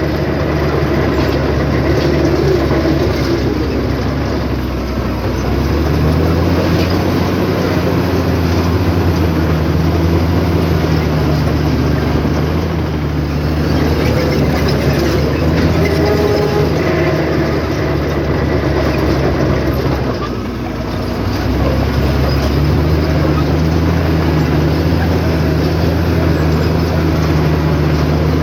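Bulldozer's heavy diesel engine working under load, with the clatter of its steel tracks. The engine eases off briefly twice, about five seconds in and again about twenty seconds in, each time pulling back up to a steady working pitch.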